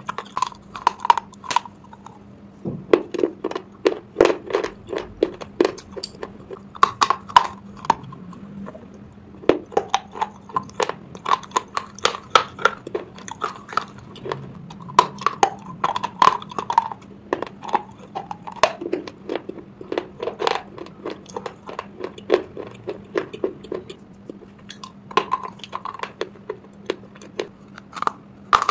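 Crunching and chewing of a mouthful of slate pencil pieces: many irregular sharp crunches. Near the end comes a fresh bite into a white slate pencil bar.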